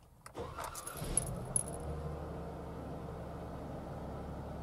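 2014 Jeep Wrangler JK's 3.6 Pentastar V6 cranking over with a few clicks and catching about a second in, revving briefly, then settling into a steady idle. This is the start after the oil system was primed, and the engine fires normally.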